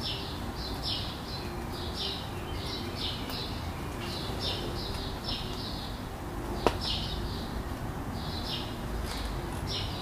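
Small birds chirping in quick short notes, two to three a second, over a steady low city rumble. A single sharp click comes about two-thirds of the way in.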